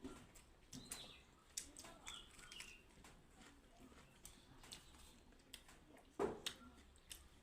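Quiet eating sounds close to the microphone: chewing clicks and lip smacks, with one louder mouth sound about six seconds in.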